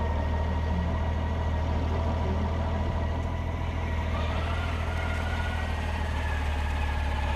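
Honda Gold Wing flat-six engine idling steadily just after start-up.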